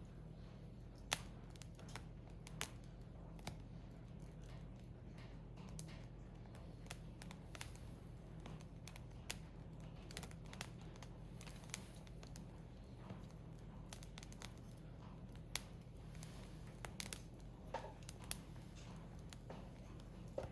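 Wood fire crackling in a Picogrill fire stand: irregular sharp pops and snaps from burning split firewood, one louder snap about a second in and another near 15 seconds.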